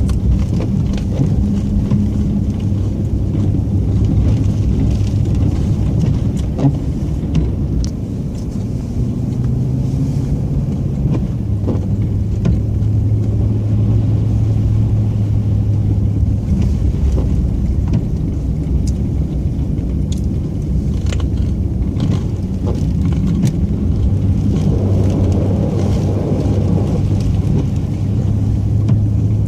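Plow truck's engine running steadily, heard from inside the cab, its pitch shifting a little now and then as it drives, with a few faint clicks and knocks.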